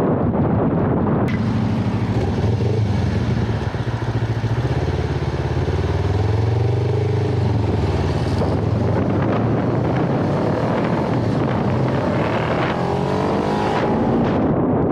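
Kawasaki Ninja 500R's parallel-twin engine running under way, its revs rising and falling, with wind rushing over the microphone.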